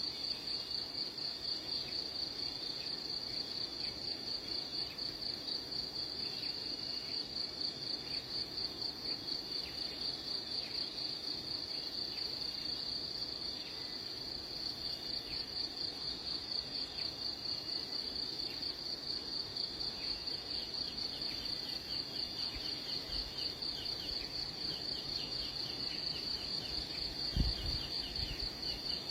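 Steady, rapidly pulsing high-pitched insect trill, an outdoor chorus of crickets or cicadas, with faint short high chirps joining in over the second half. A single brief low thump comes near the end.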